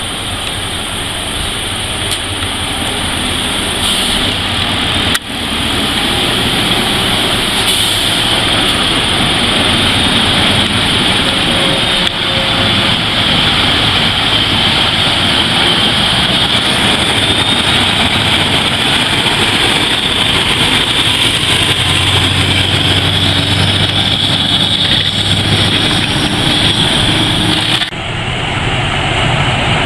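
Heavy logging truck's engine running steadily as the truck drives, with road and wind noise. The sound breaks off abruptly about five seconds in and again near the end, where clips are cut together.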